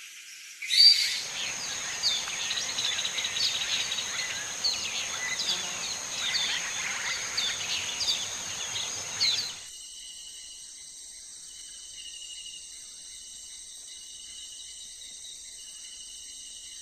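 Outdoor nature ambience: many short bird chirps over a steady noise bed. About ten seconds in it cuts off abruptly to a steady high insect trill with a faint pulsing note.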